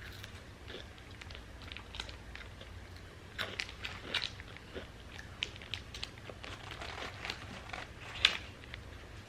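Close-up eating sounds: a person biting and chewing crunchy food, with irregular crunches and wet mouth clicks. A sharp click about eight seconds in is the loudest.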